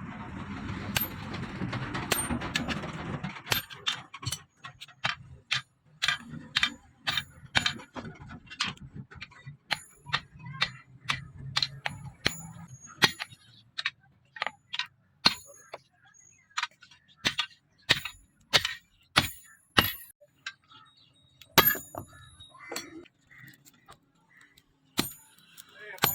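Hammer blows on leaf-spring steel: a long run of sharp metallic strikes, roughly one or two a second, each with a bright ring. A dense rushing noise fills the first few seconds before the strikes begin.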